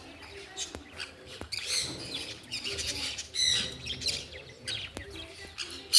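Birds chirping and squawking in short clusters of high calls, several times over, with a few sharp clicks between them.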